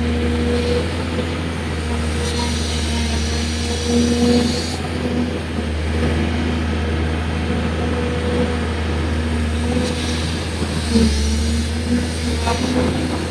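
Hydraulic excavator running steadily: a low engine hum with a held tone above it that wavers slightly as the machine works.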